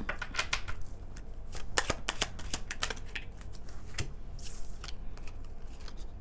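A deck of fortune-telling cards being shuffled and handled by hand: quick runs of crisp card snaps and clicks.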